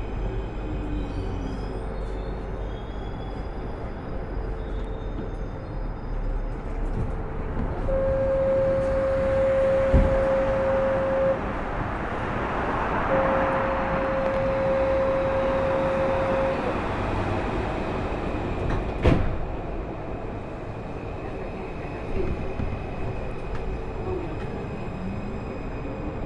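Alstom AS-02 metro train running, heard from on board: a steady rumble of wheels on rail with the traction motors' whine gliding in pitch near the start and again near the end. About eight seconds in, two long steady tones of the same pitch sound one after the other, each lasting a few seconds. The rumble swells through the middle, and sharp knocks come twice.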